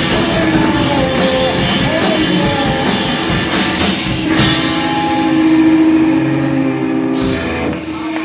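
Live rock band playing loud, with drum kit and guitar; the cymbals and drums drop out about seven seconds in, leaving a held note as the song ends.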